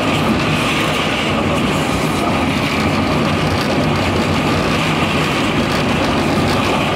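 Manila LRT Line 1 light-rail train running steadily, a continuous rumble and hiss of the moving train with faint steady tones and no sudden knocks or stops.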